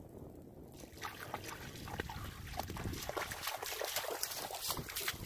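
A dog wading in shallow river water, with irregular splashing and trickling around its legs as it washes off mud. The splashes start about a second in and keep coming unevenly.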